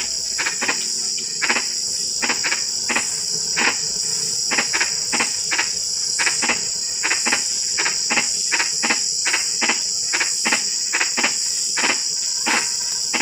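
Frogs calling in chorus after rain: short croaks repeated several times a second at an uneven pace, over a steady high-pitched insect trill.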